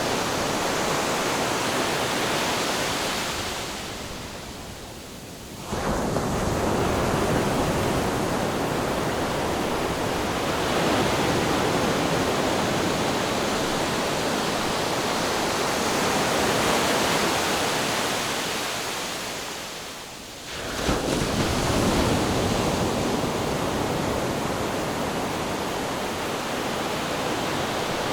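Ocean waves breaking on a shore: a steady rush of surf that draws back and fades twice, each time followed by a new wave crashing in suddenly, about six seconds in and again about twenty-one seconds in.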